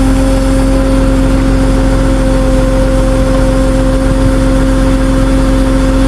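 Tow truck's engine running steadily at idle, a constant loud drone with a steady hum that does not change.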